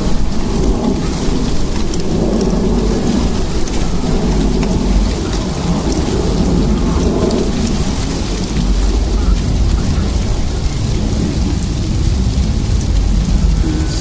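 Sleet storm: a dense hiss of sleet pellets pattering and ticking on surfaces, over a steady low rumble.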